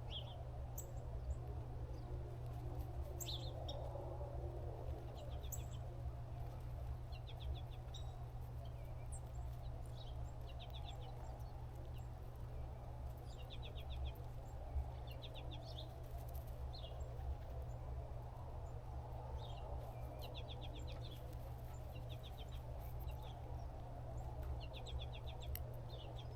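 Small birds chirping, with short rapid high trills repeated every second or two, over a steady low rumble.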